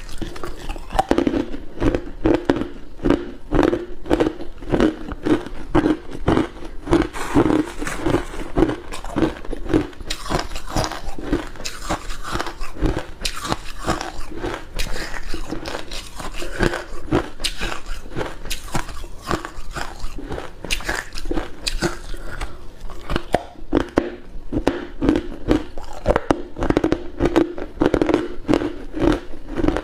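Hard ice cubes being bitten and chewed close to the microphone: continuous crunching with several sharp cracks a second.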